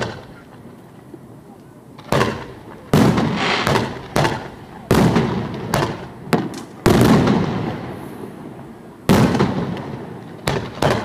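Aerial firework shells bursting: about ten sharp bangs at irregular intervals, some in close pairs, each followed by a rolling echo that dies away.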